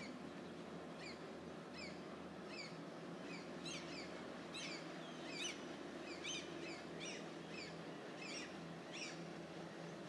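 A bird calling over and over, a dozen or so short, sharply falling calls about one every three-quarters of a second, over a steady low hum.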